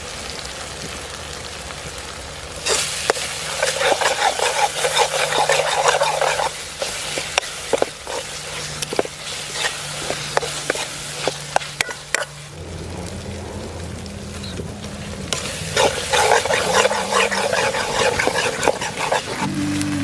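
Food frying and sizzling in a kadai while a spatula stirs it. The sizzle swells twice, and sharp clicks and scrapes of the spatula against the pan come in between.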